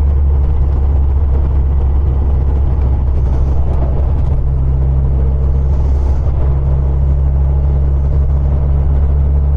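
Cabin sound of a 1974 VW 1303S Super Beetle's rebuilt 1915cc air-cooled flat-four engine pulling the car along the road: a steady low drone.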